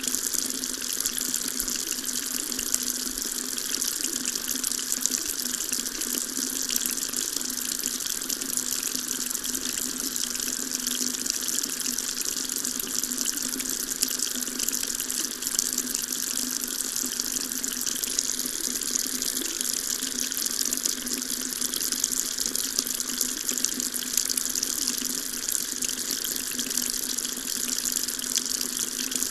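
Water running steadily from a tap into a sink, a continuous splashing stream with no change in flow.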